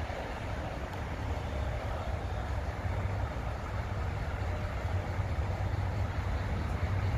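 Freight train rolling away on the rails, a steady low rumble of wheels and cars, with wind buffeting the microphone.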